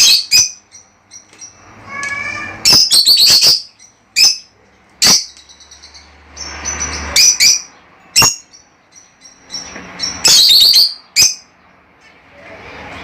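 Budgerigars chirping and squawking: short, sharp, high calls every second or so, with quick runs of several calls about three seconds in and again about ten seconds in.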